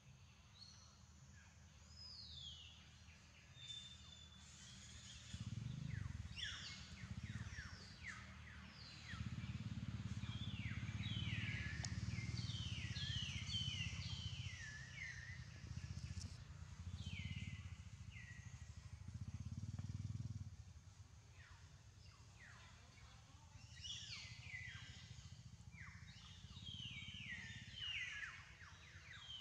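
Birds calling with many quick, downward-sweeping chirps in runs, over a low rumble that swells through the middle and fades again.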